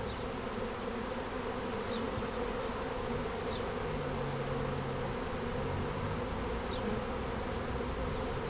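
Honeybee swarm buzzing steadily, the dense hum of many bees at a hive box, with a lower-pitched hum coming and going about halfway through.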